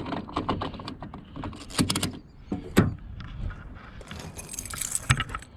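Keys jangling and clattering in the hand, a string of short sharp clicks, with a burst of rustling about four seconds in.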